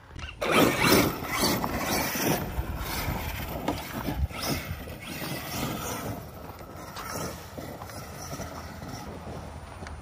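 Arrma Kraton 8S electric RC monster truck running across loose dirt: its brushless motor whining and its tyres scrabbling. It is loudest about half a second in, then runs on a little quieter.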